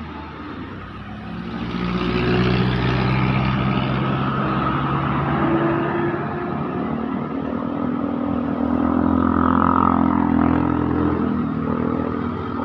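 A motor vehicle's engine running close by on the road, getting louder over the first two seconds and then staying loud, its engine note shifting slowly in pitch.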